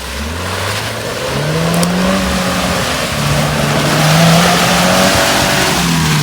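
An off-road vehicle's engine revving hard under load. The pitch climbs about a second in, holds high for several seconds, and drops near the end, under a loud rushing hiss of tyres and spray.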